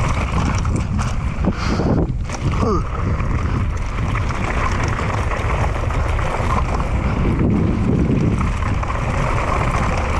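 Wind buffeting the microphone and bike tyres rolling over a dirt trail on a fast mountain bike descent: a steady, loud rushing rumble.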